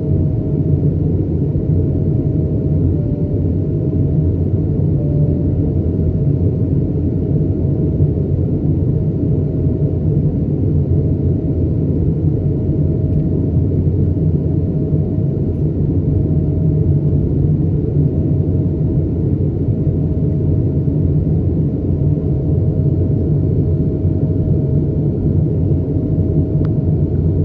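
Airbus A220-300 in flight, heard from inside the cabin: its Pratt & Whitney PW1500G geared turbofans and airflow make a steady, loud rumble, with a thin steady whine above it.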